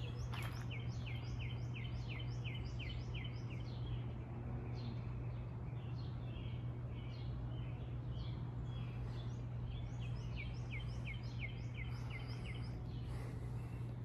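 A songbird singing a fast series of repeated down-slurred notes, about four a second, in two bouts, one near the start and one about ten seconds in, over a steady low rumble of background noise.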